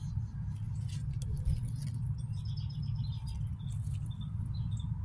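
Small birds chirping in quick series of short high notes over a steady low rumble.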